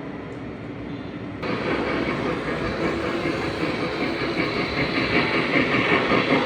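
Model train running on the layout track: a steady rolling, clattering noise that turns abruptly louder and brighter about a second and a half in.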